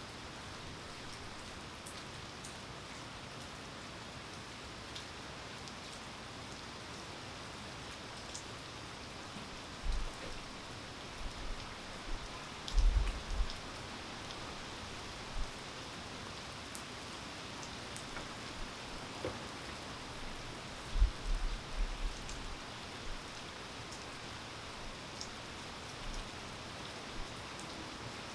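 Steady rain falling, a soft even hiss with scattered drop ticks. Several short, low thuds break through, the loudest about halfway in and again near three quarters of the way.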